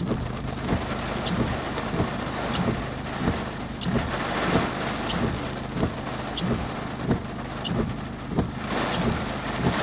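Torrential rain drumming on a moving car, heard from inside the cabin as a dense steady hiss. A low thump repeats about every two-thirds of a second.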